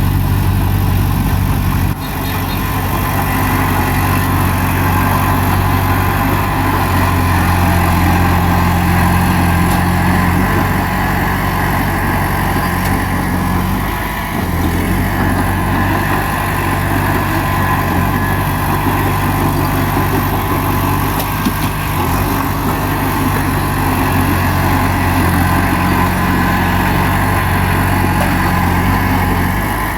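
Bulldozer's diesel engine running steadily at working revs, with short dips in level about two seconds in and again near the middle.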